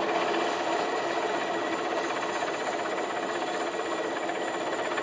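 Helicopter running steadily, its rotor noise coming through as a rapid, even pulsing over a constant din.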